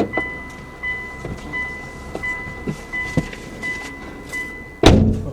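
Car warning chime beeping steadily, about one and a half beeps a second, like a door-open or key-in-ignition alert; it cuts off near the end at a single loud thump.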